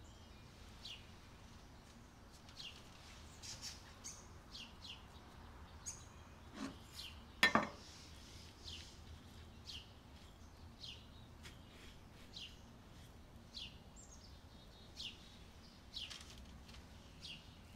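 A small bird chirping over and over: short, high, falling chirps, faint, roughly one a second. About seven and a half seconds in comes a single sharp knock, the loudest sound.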